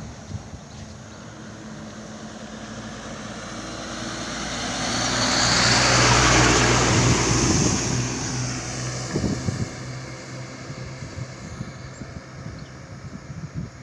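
A truck passing by: its engine hum and tyre noise grow louder, are loudest about six seconds in, then fade away.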